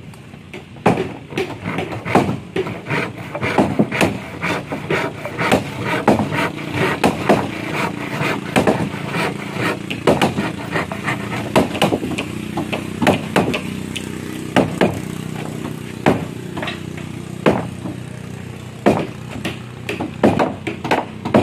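Irregular hammer strikes on wood, at times several a second, over a steady low engine hum.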